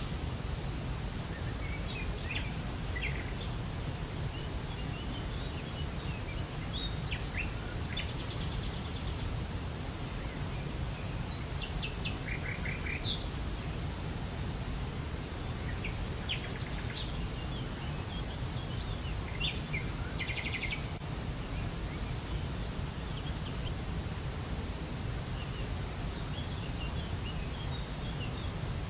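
Steady rush of a waterfall, with songbirds calling over it in short, rapid trills every few seconds.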